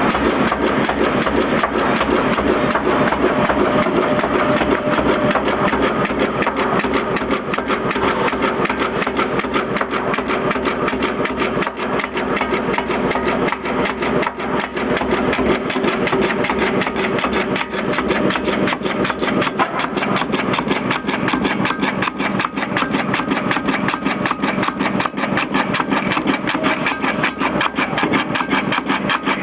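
POLTEM SW 42 board spine-cutting machine running, a steady, rapid mechanical clatter as it cuts board strips for hardcover book spines.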